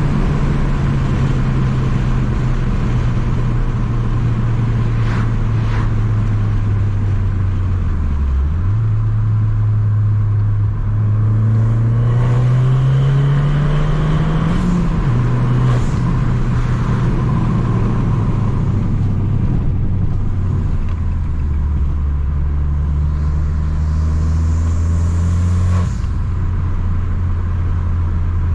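Tuned Abarth 595 Competizione's turbocharged 1.4-litre four-cylinder running through a full 60 mm free-flowing exhaust while driving. The engine note sinks slowly, climbs under acceleration about a third of the way in, drops suddenly at a gear change around halfway, then settles into a steady lower drone.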